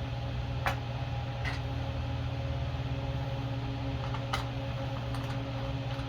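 A steady machine hum, like a running fan, with a few light, separate clicks of small metal parts being handled as a cover plate and its bolts go back onto a small engine.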